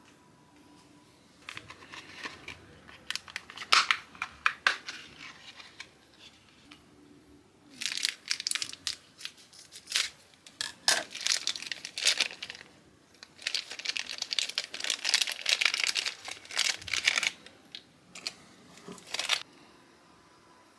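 Crinkly packaging being handled and torn, in several bursts of rustling and crackling with short pauses between.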